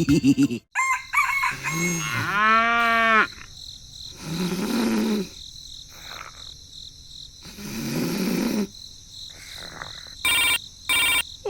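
A rooster crowing once, with other chicken calls around it and three short pitched tones near the end.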